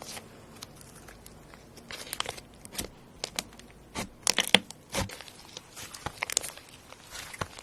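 Slime being squeezed and pressed by hand, giving irregular crackles and crunchy snaps, with denser bursts about two seconds in, around four to five seconds, and just after six seconds.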